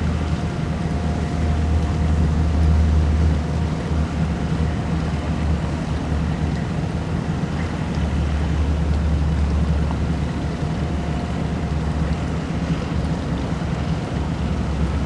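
Boat engine running at low speed, a steady low hum that swells twice, with wind buffeting the microphone.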